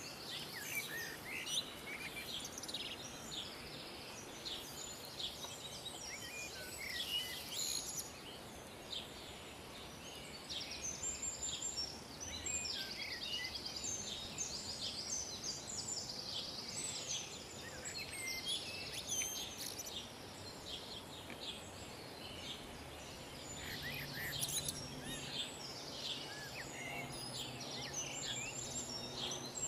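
Several small birds singing and calling, with overlapping chirps and rapid trills, over a faint steady outdoor hiss.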